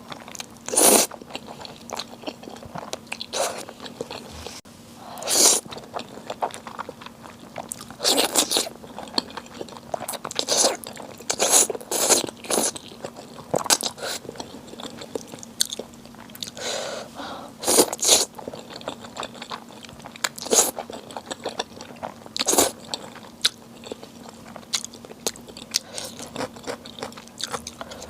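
Close-miked eating: a person biting and chewing, with sharp crunchy bites every second or two.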